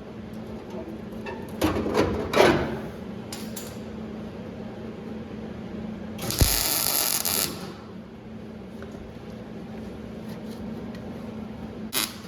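Welder tack-welding a steel firewall panel in place: short crackling weld bursts about two seconds in, then a longer, louder tack lasting about a second just past the middle, over a steady low hum.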